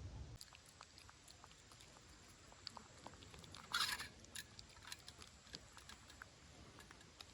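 Faint wet clicks and smacks of a puppy's mouth as it eats, with one short louder rustle about four seconds in.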